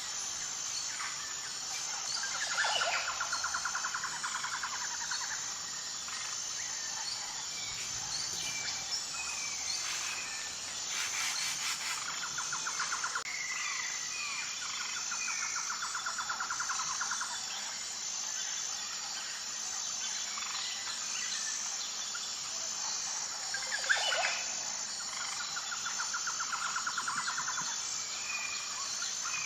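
Wild birds calling: scattered chirps and a rapid trill lasting about two seconds that comes three times, over a steady high note that pulses about once a second.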